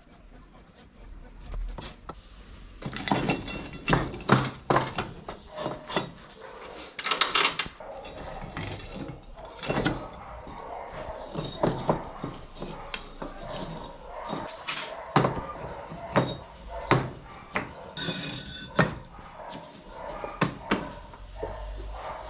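Irregular knocks and clanks of metal being struck or handled, at about one to two a second with uneven spacing, starting a few seconds in.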